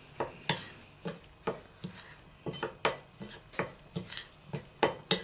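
Kitchen utensils clinking, knocking and scraping against a mixing bowl as ingredients go in, in a dozen or so irregular short taps.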